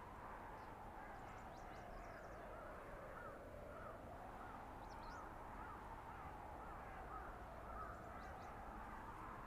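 Blizzard wind in a winter forest: a steady rush with a howling whistle that slowly sinks and rises again. A faint, quickly repeated bird call runs through the middle.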